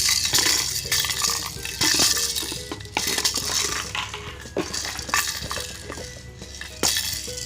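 Hard objects clattering and clinking in repeated bursts, about one every second or two, over faint background music.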